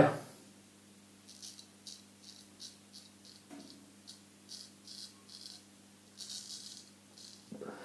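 Solingen straight razor scraping through stubble on lathered skin in a quick series of short strokes, about three a second, with a longer stroke about six seconds in.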